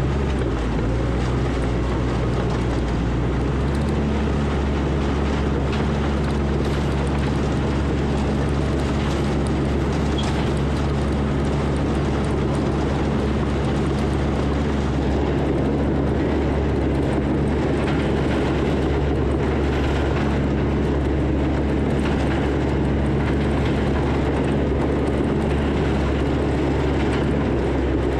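Diesel engine of a heavy earthmoving machine running steadily under load while pushing dirt. The engine note rises about four seconds in and then holds.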